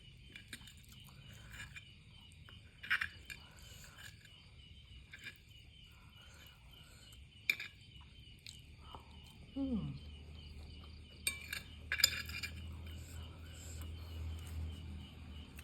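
Cutlery clinking against a bowl while eating instant noodles, a few sharp clinks spread through, with a short falling hum from the eater about two-thirds of the way in.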